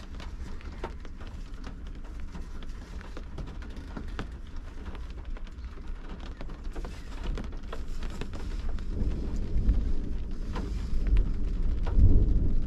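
Rain falling on a car's windshield and roof, heard from inside the car: scattered drop clicks over a steady low rumble. The rumble swells louder in the last few seconds.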